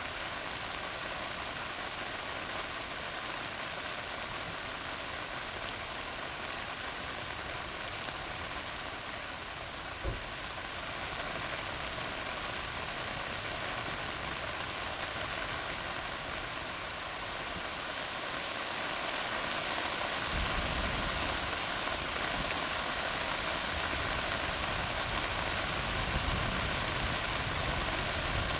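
Steady rain falling on a tar road, an even hiss of drops hitting the surface. About two-thirds of the way through, a low rumble of distant thunder comes in and the whole sound grows a little louder.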